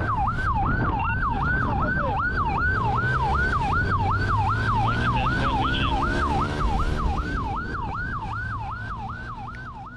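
Police car siren on yelp, a fast rising-and-falling wail about three times a second, over engine and road noise. It fades over the last few seconds.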